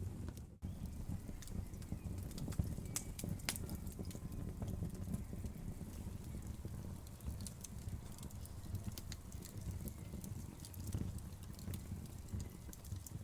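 Wood fire crackling: irregular sharp pops and snaps over a low steady rumble of flames. The sound cuts out for an instant about half a second in.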